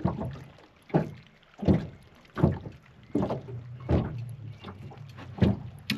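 Wind-driven waves slapping against the side of a small fishing boat's hull, in a steady string of short splashes about one every second.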